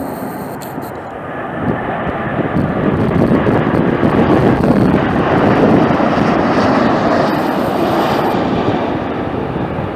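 Airliner passing overhead near the runway, its engine noise swelling to a peak about midway and then easing off.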